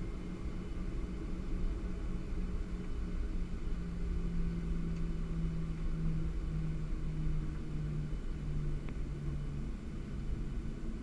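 Steady low rumble inside a Boeing 737-700 cabin, with a humming tone that wavers and drops slightly in pitch partway through.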